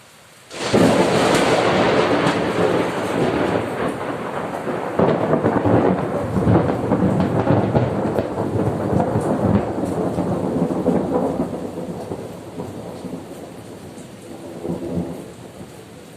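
Thunder during a summer rain shower: a loud crack about half a second in breaks into a long rolling rumble that slowly dies away, with a smaller swell of rumbling near the end, over steady rain.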